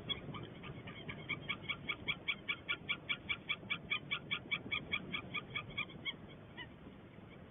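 White-tailed eagle calling: a long series of short, high, evenly repeated notes, about five a second. The notes grow louder over the first second or two and die away about six seconds in.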